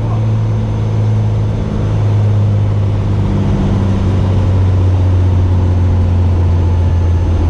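Cessna 210K's six-cylinder piston engine and propeller droning steadily, the pitch dropping slightly about two seconds in.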